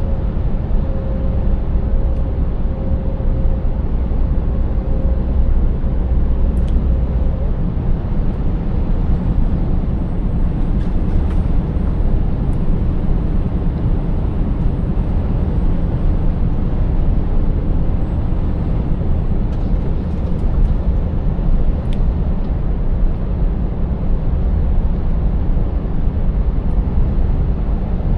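Scania 590S V8 truck driving at a steady pace: an even low engine drone with tyre and road noise. A held mid-pitched tone stops about seven seconds in, and a faint high whine rises and holds for a while in the middle.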